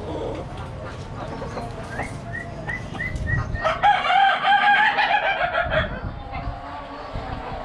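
Birds calling: four short rising chirps, then a loud, wavering call of about two seconds just before the middle.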